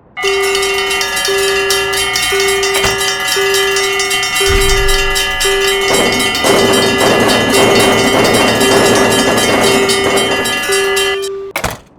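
Railroad crossing warning bell ringing steadily about once a second over a rapid ticking. From about four and a half seconds in, a passing train's rumble joins it. Everything cuts off abruptly near the end.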